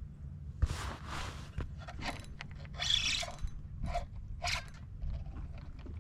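Wind rumbling on the microphone, with a series of short, irregular noisy bursts. The loudest burst comes about three seconds in.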